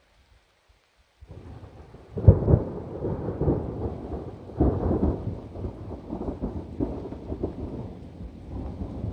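Thunder: a sharp crack about two seconds in, then a rolling rumble with several further peaks, the strongest about four and a half seconds in, slowly dying away.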